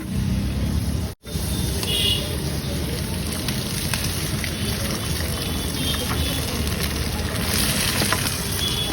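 Egg frying in butter on a hot griddle: a steady sizzle with fine crackling, over a low rumble. The sound breaks off for an instant about a second in.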